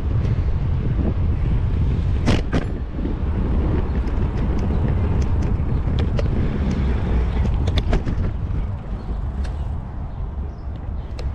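Wind rumble on a bicycle-mounted GoPro's microphone while riding, with scattered sharp clicks and rattles and a loud double knock about two seconds in. Passing road traffic may be mixed in.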